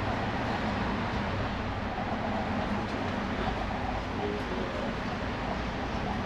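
Vintage City Circle tram running between stops, heard from inside the car: a steady rumble of wheels on the rails with a low hum.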